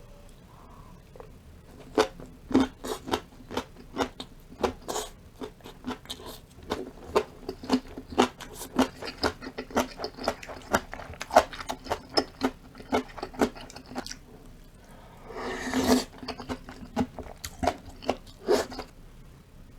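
A person chewing and crunching food close to the microphone, a quick irregular run of sharp crunches and clicks, with one brief noisy rush about three quarters of the way through.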